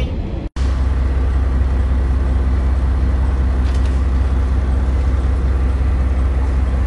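Steady low drone of a moving KiHa 40/47 diesel railcar heard from inside the car: engine and running noise. The sound breaks off for an instant about half a second in.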